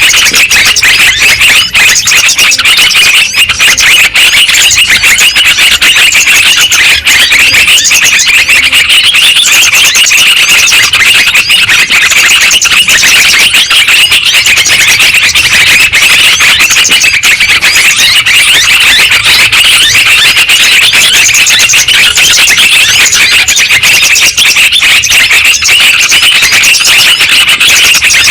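Yellow-vented bulbuls (trucukan) chattering continuously, many bubbling calls overlapping into a dense, unbroken chorus. It is a lure recording, played to draw in wild bulbuls and set caged ones singing.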